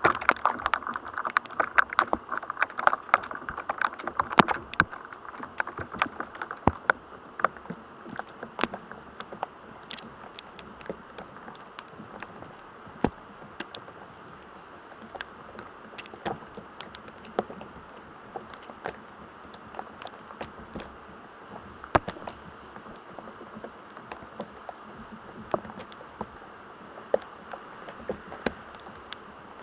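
Irregular sharp crackles and pops of electrostatic noise ahead of thunder, over a faint hiss. They are densest in the first few seconds and scattered after that.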